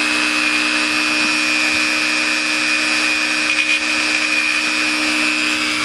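High-speed electric rotary tool running steadily with a high whine, grinding away the plastic of a model kit's deck to clean up a cut-out hatch opening.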